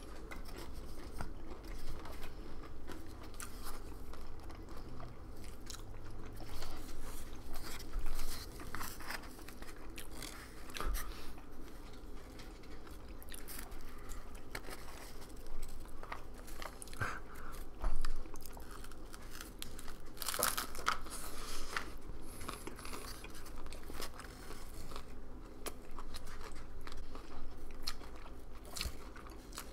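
A person biting and chewing Mexican takeout food, a taco among it, close to a tabletop microphone: irregular wet chewing with crunches and small clicks.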